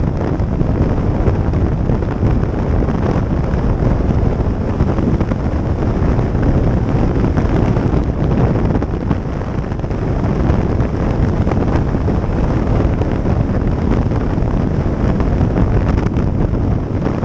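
Steady wind noise buffeting the microphone on a moving motorcycle, with the ride's engine and road noise blended underneath.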